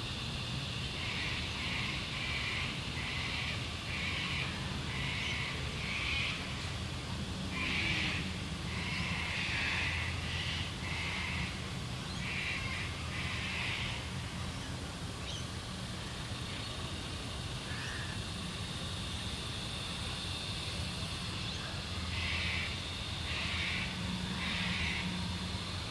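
Australian bush at sunset: birds calling in short repeated notes, about one a second at first and then irregular, over a steady high hum and a low steady rumble.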